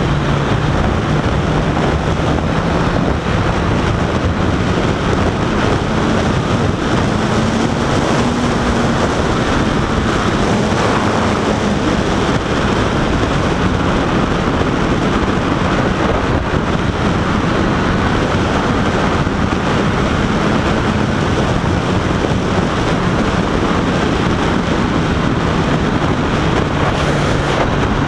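Honda CBR1000RR inline-four engine running on the move, its pitch drifting a little with speed, under a heavy rush of wind on the microphone.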